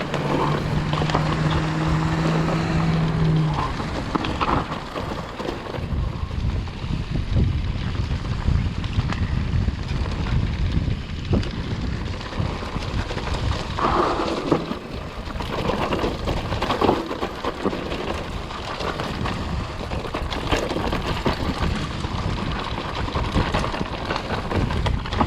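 Mountain bike riding fast down a dirt trail: wind buffets the microphone, the tyres rumble and the bike rattles and knocks over bumps. A steady hum sounds under the first few seconds.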